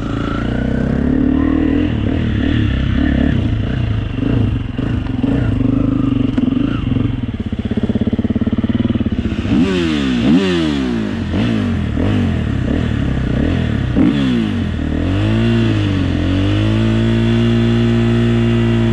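2021 KTM 350 four-stroke single-cylinder enduro motorcycle engine running hard under throttle. About halfway through the revs rise and fall quickly several times, then hold steady near the end.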